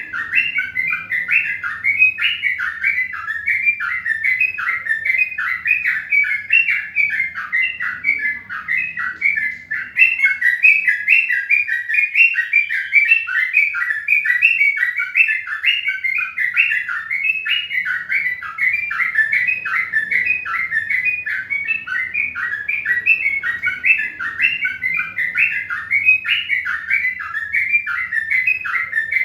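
Birds chirping rapidly and continuously, many short calls a second overlapping, with a faint low hum beneath.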